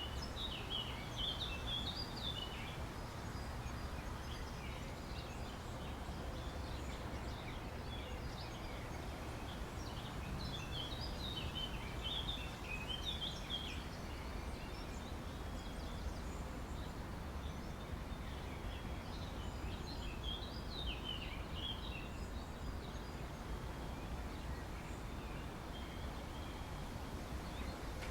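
Outdoor park ambience: a songbird sings quick chirping phrases three times, at the start, about ten seconds in and about twenty seconds in, over a steady low background rumble.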